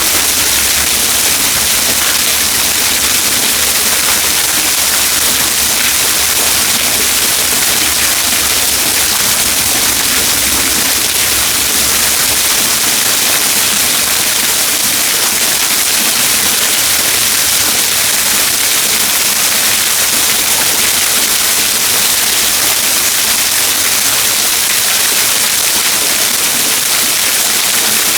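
Waterfall: water falling and splashing in a loud, steady rush of noise that does not change.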